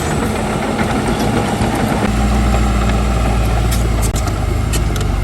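Heavy diesel engine of earthmoving machinery running steadily, its low note shifting about two seconds in, with a few light clicks near the end.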